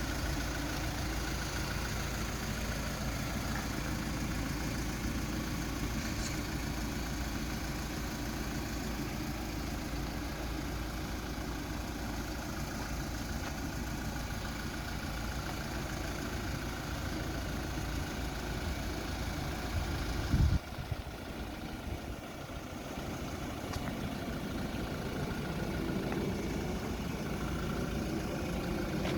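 Kia Bongo III's 3000 cc diesel engine idling steadily. About two-thirds of the way through there is a brief loud knock, and the deep engine rumble drops away abruptly.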